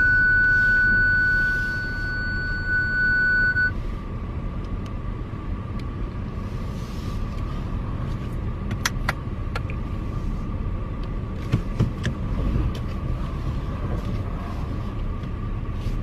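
Inside a moving car: steady low rumble of road and engine noise. A loud, steady electronic tone sounds over it for the first few seconds, then cuts off suddenly, and a few faint clicks come near the middle.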